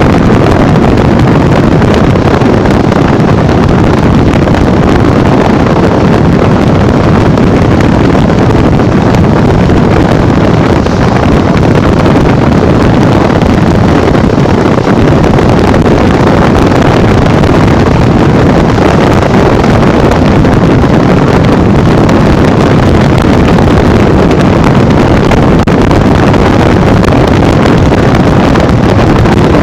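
Steady, loud wind rushing over the microphone from a Honda Bros 150 motorcycle ridden at speed on the highway, with its single-cylinder engine running under the wind noise.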